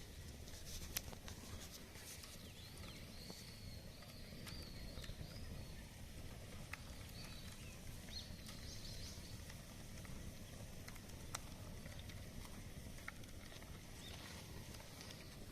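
Faint outdoor bonfire crackling: scattered sharp pops and ticks over a low steady rumble. Brief high wavering chirps come a few seconds in and again around the middle.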